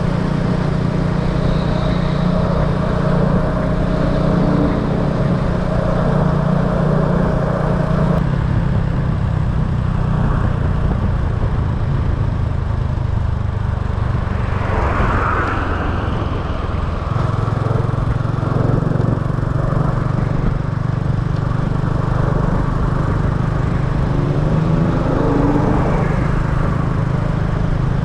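Small motorbike's engine running while riding along a road, its pitch stepping down about eight seconds in, dipping in the middle and then picking up again, with other traffic passing about halfway through.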